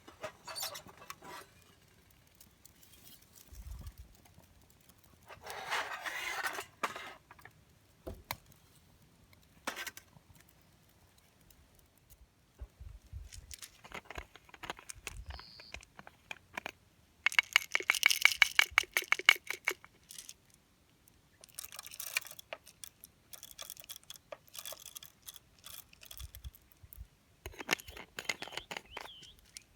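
Objects being handled: scattered clicks, scrapes and rustles, with a rapid rattling run of clicks lasting about three seconds around the middle.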